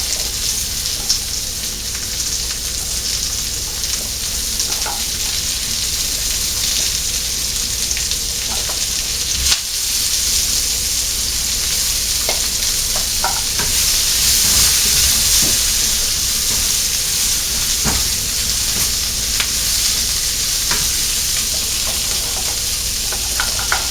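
Onion sizzling in hot oil in the base of a ceramic tagine, a steady hiss that swells a little midway, with scattered light clicks of a utensil stirring it.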